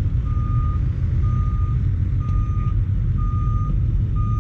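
A vehicle's reversing alarm beeping about once a second, each beep a steady single tone lasting about half a second, over the continuous low rumble of a running engine.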